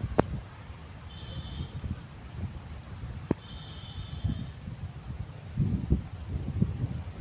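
Insects chirping in a steady rhythm, short high chirps about twice a second with a higher, longer pulse repeating more slowly. Under them is an uneven low rumble, and two sharp clicks come near the start and about three seconds in.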